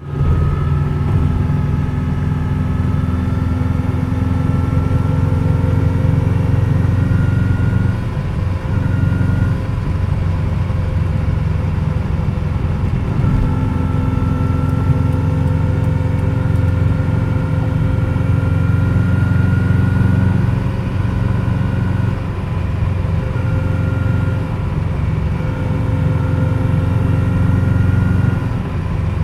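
2003 Subaru WRX under way at speed, its turbocharged flat-four engine and road noise running steadily with a high whine on top that comes and goes, dropping out twice and returning. The whine appears only under acceleration above about 50 mph, which the owner suspects is a bad pulley or a wheel bearing.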